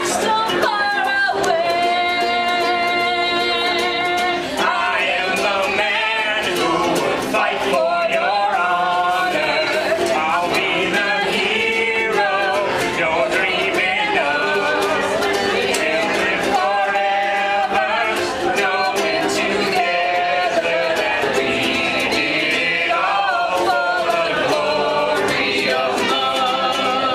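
Voices singing a song together, with long held notes.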